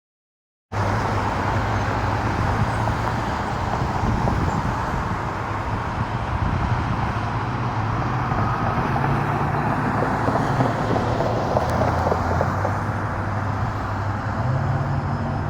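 Diesel engine of a 2021 Pierce Impel fire-engine pumper running steadily, cutting in under a second in, its low hum shifting slightly in pitch a few times.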